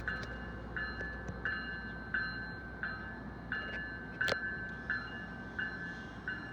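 Railroad grade-crossing bell ringing steadily, about three strokes every two seconds, with a single sharp click about four seconds in.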